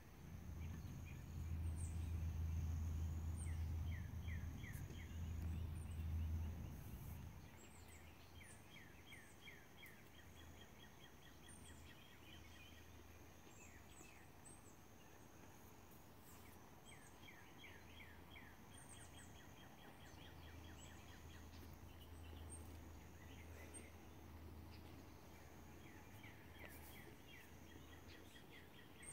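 Birds singing in repeated phrases of quick chirps over a faint outdoor background. A low rumble runs through the first seven seconds or so.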